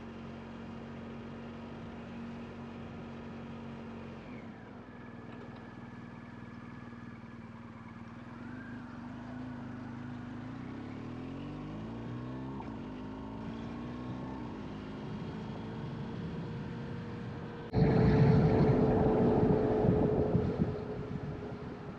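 A vehicle's engine running steadily, its pitch sliding up and down for a few seconds in the middle. Near the end a loud rushing noise comes in suddenly for about three seconds, then dies away.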